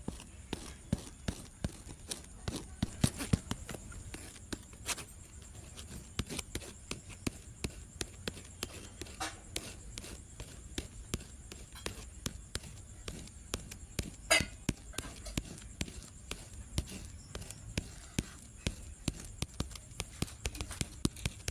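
Quick, irregular clicks and knocks, a few a second, of cups, ice and utensils being handled while a coconut milk smoothie is made.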